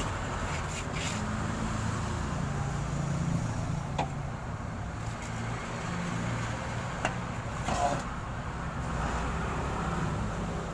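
Toyota Soluna GLI's four-cylinder engine running steadily at idle through an aftermarket JS Racing exhaust muffler, with a few short clicks about four and seven seconds in.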